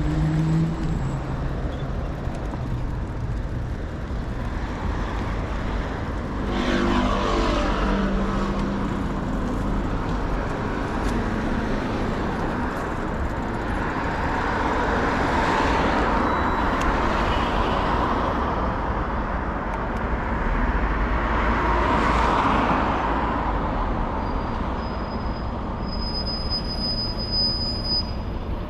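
City street traffic heard while cycling: a steady hum of road noise, with motor vehicles passing by about a quarter of the way in, around the middle, and again about three quarters of the way in.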